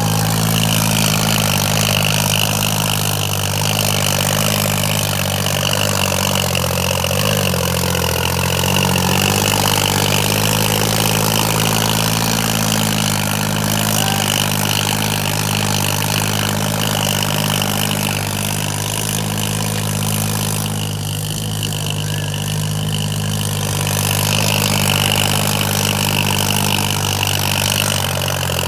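John Deere tractor engine running steadily under load while pulling two harrows in tandem, with a steady high whine over the engine note that fades for a couple of seconds past the middle.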